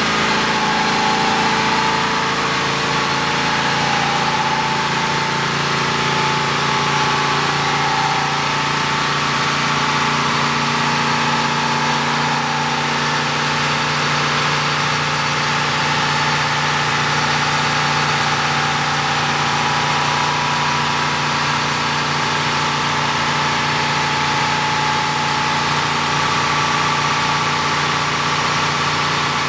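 Ford Mustang engine idling steadily, holding the same speed throughout with no revving.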